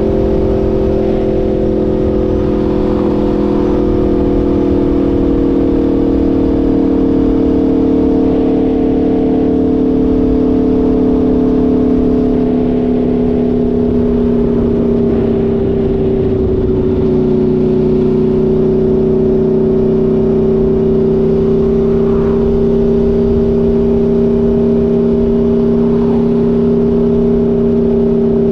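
Aprilia Tuono V4 motorcycle's V4 engine running steadily under way, its pitch slowly easing down over the first half and then holding steady, over a steady rushing noise.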